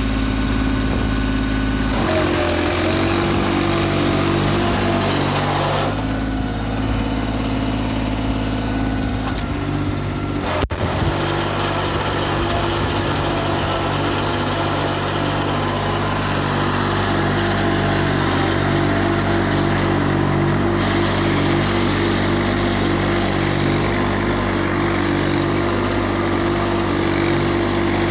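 Tractor diesel engine running steadily, its engine note shifting a few times, with a brief click about eleven seconds in.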